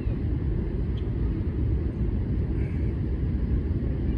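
Outdoor ambience made up of a steady low rumble, with a few faint short high chirps above it.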